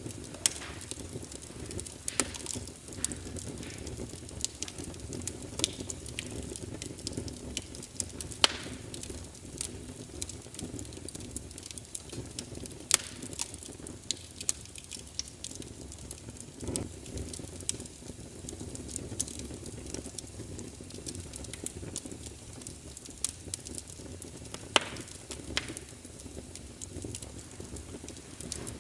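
Wood fire burning in a fireplace: a steady low rumble of flames with irregular crackles and pops, a few of them loud sharp snaps.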